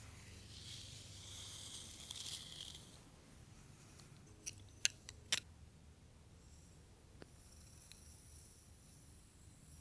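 Hair being brushed: a soft, high brushing hiss of bristles drawn through hair for the first few seconds, then a few sharp clicks near the middle.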